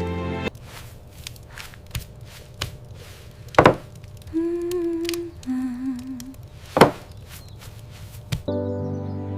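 Knife chopping on a cutting board: a few light knocks and two sharp, loud strikes, with a person humming two short notes between them, the second lower and wavering.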